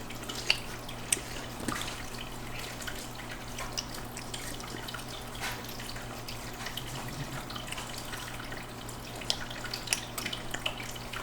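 Quiet room with a steady low electrical hum and scattered faint small clicks and taps.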